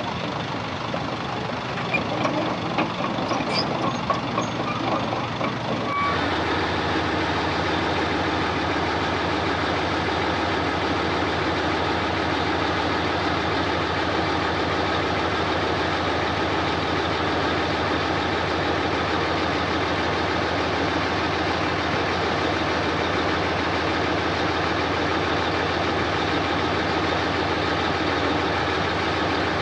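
Heavy diesel earthmoving machinery running at a worksite. About six seconds in the sound switches abruptly to a steady, dense engine drone.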